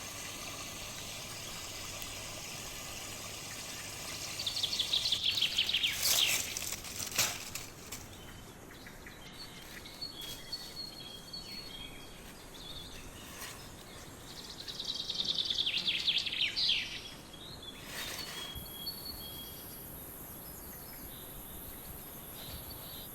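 A small songbird sings two fast, trilled phrases that fall in pitch, about ten seconds apart, over steady outdoor background noise. Faint repeated chirps and a few sharp clicks are heard between the phrases.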